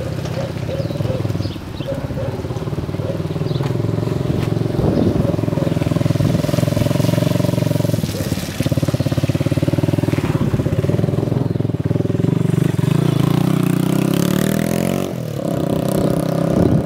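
Motor vehicle engine running steadily, its pitch rising near the end.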